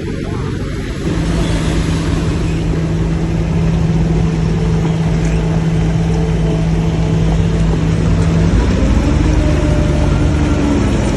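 Heavy diesel earthmoving machinery running under load. The engine gets louder about a second in, holds a steady drone, and its note changes about eight and a half seconds in.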